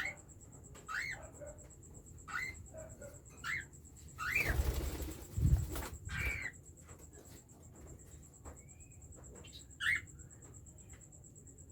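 Young cockatiels giving short chirping calls, about one every second or so, with a burst of wing flapping about four to six seconds in.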